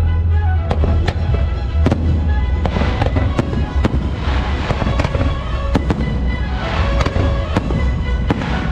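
Fireworks bursting over a show's music soundtrack: a sharp crack or pop every half second or so, over loud music with heavy bass from loudspeakers.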